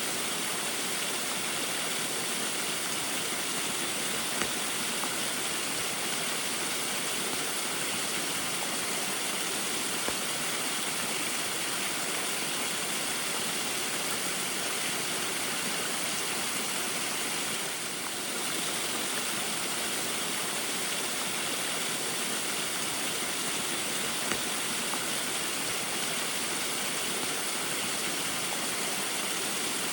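Small waterfall splashing steadily in falling rain, an even rush of water that dips slightly for a moment about eighteen seconds in.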